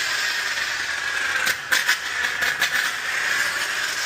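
Self-serve car wash foaming brush spraying foam, a steady hiss with a few brief crackling breaks about a second and a half to two and a half seconds in.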